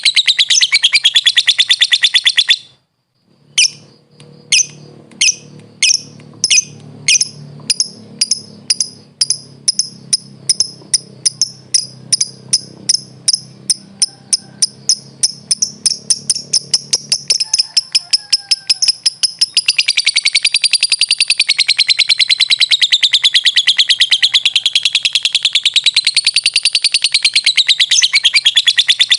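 Lovebird (Agapornis) singing its long chattering 'ngekek' song. A fast trill breaks off briefly, then single high chirps speed up into a rapid trill, which runs into a long continuous chatter wavering up and down in pitch. A faint low hum lies under the middle part.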